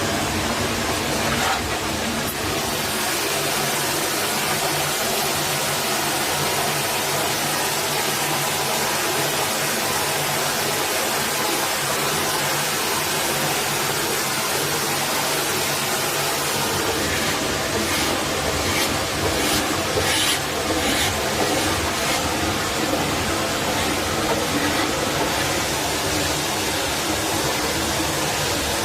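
Steady rush of a forest stream's flowing water, with a few short clicks or knocks about two-thirds of the way through.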